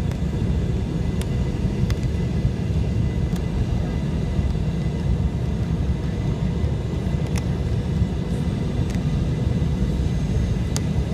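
Steady low rumble of an airliner on its landing approach, with a few faint ticks scattered through it.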